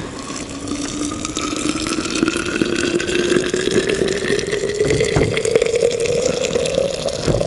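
Freshly boiled water poured from a kettle into a vessel, the pitch of the pour rising steadily as the vessel fills.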